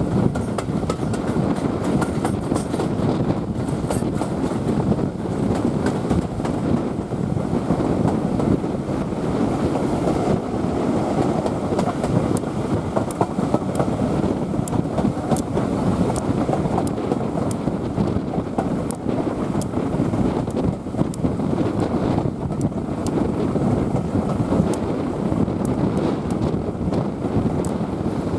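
Passenger train coaches running steadily along the track: a continuous rumble with frequent sharp clicks from the wheels and rails.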